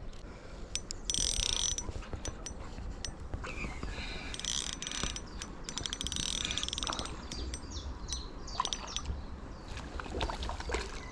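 Small front-drag spinning reel (Savage Gear SG8 1000FD) whirring in several short bursts, with scattered clicks, as a hooked chub is played on light line.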